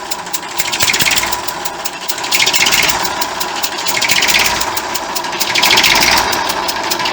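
1959 Fordson Dexta's three-cylinder diesel engine running with a fast, even clatter. A hissing blow rises and falls about every second and a half; the owner traces this blowing sound to a leak around the centre injector's copper washer, not to the exhaust manifold.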